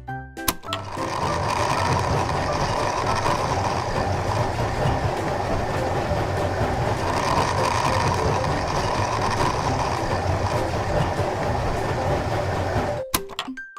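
A small machine running: a steady mechanical rattle and rumble that starts about a second in and stops suddenly near the end.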